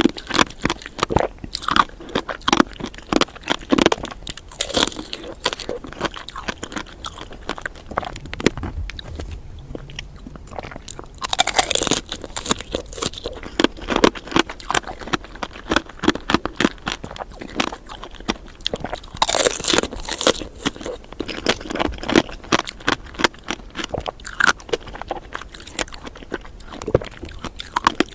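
Close-miked biting and chewing of candied fruit: the hard sugar coating crunches and crackles in dense rapid clicks. Two louder crunching bites stand out, one near the middle and one about two-thirds of the way through.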